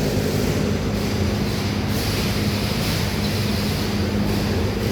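Steady low mechanical drone with several steady low tones over a broad hiss, unchanging throughout.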